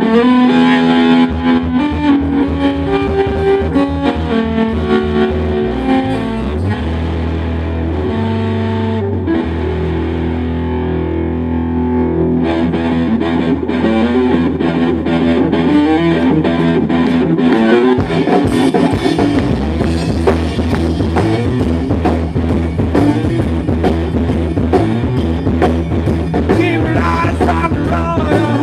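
Rock band playing an instrumental passage: guitar over bass and drums, growing fuller about halfway through.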